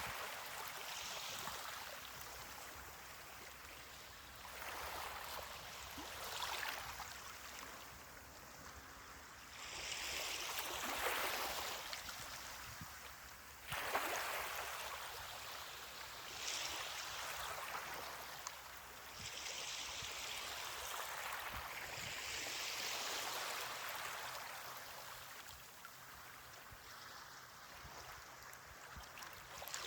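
Small ocean waves washing onto a beach, each wash of hiss swelling and fading every few seconds. One wave breaks more sharply about halfway through.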